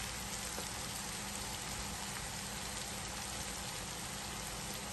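Chopped onions, ginger-garlic and green chillies sizzling steadily in hot oil in a pot.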